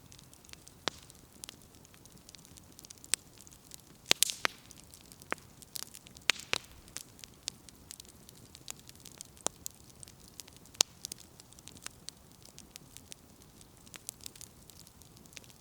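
Firewood burning in a campfire, crackling with irregular sharp pops over a faint hiss, the loudest cluster of pops about four seconds in and another around six seconds.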